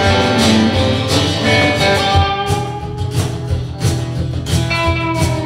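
Live band playing an instrumental break led by strummed acoustic guitar, over a steady low pulsing beat.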